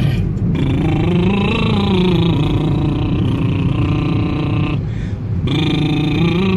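A man's lip trill (lips buzzing while voicing) sliding up in pitch and back down, in two phrases with a short breath between, as a vocal warm-up to loosen the throat. A steady low car hum runs underneath.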